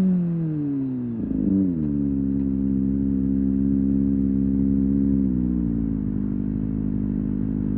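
Kawasaki ZX25R SE's 249 cc inline-four engine with its revs falling as the bike slows, a brief rise in revs about a second and a half in, then running at steady revs that dip slightly again around five seconds in.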